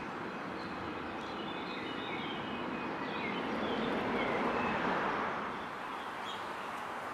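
Steady hum of distant traffic with small birds chirping, and a passing vehicle that swells louder about four to five seconds in, then fades.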